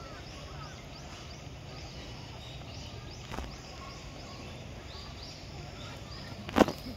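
Outdoor ambience with small birds chirping over and over in the background, a faint knock about halfway through, and one sharp thump near the end, the loudest sound.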